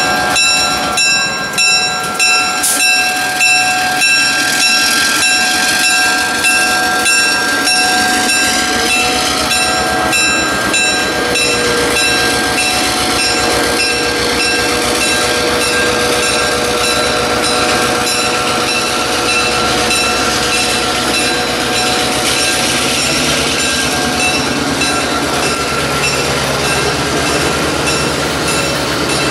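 A slow freight train passes close by: an EMD GP9 diesel locomotive goes by first, then covered hopper cars roll past with their wheels clicking in a steady rhythm over the rail joints. A few steady high-pitched tones ring over the first part.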